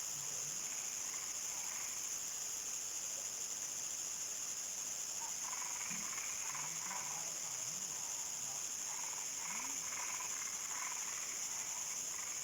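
Evening chorus of crickets: a steady high-pitched trill. Frogs call on and off over it, in short calls and low brief notes.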